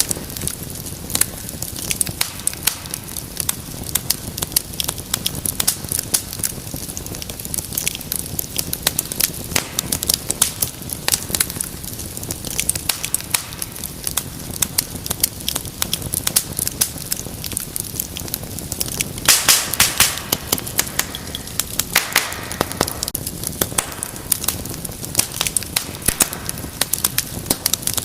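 Fireplace fire crackling with many sharp pops over a low steady rumble of flame, with a louder flurry of pops and a brief hiss about two-thirds of the way through.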